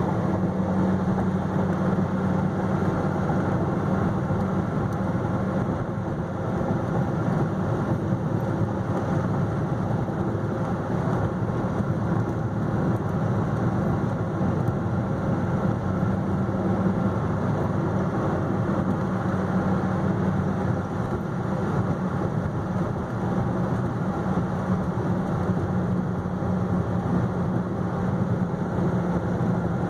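2010 Dodge Viper SRT10's V10 engine running steadily at a constant cruising speed, heard from inside the car, with tyre and road noise under it.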